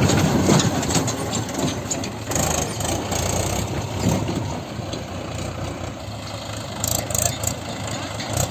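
Heavy diesel engine running steadily, a little louder in the first second.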